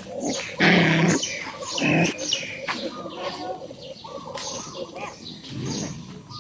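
Animal cries and bird-like chirps. A loud pitched cry comes about half a second in and a shorter one near two seconds, over many quick high chirps.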